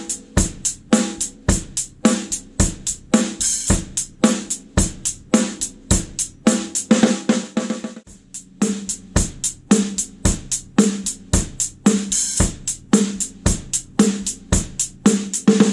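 A Tama Artwood snare drum, fitted with its original coated Evans head, played in a steady drum-kit groove with kick drum and cymbals, sound-tested through microphones. There is a short break about halfway.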